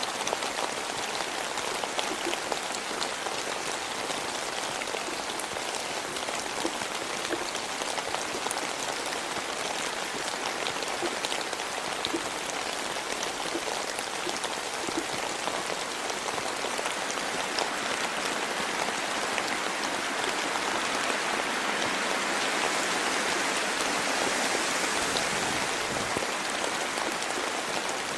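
Steady rain falling, with single drops ticking sharply through the even hiss; it grows a little louder for a few seconds past the middle.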